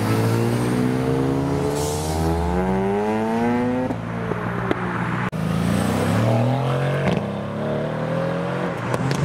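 Mazda RX-7 FD's twin-turbo rotary engine accelerating hard away from a standstill, rising steadily in pitch for about four seconds until it breaks off at a gear change. A second car's engine then revs up and accelerates away, rising in pitch again.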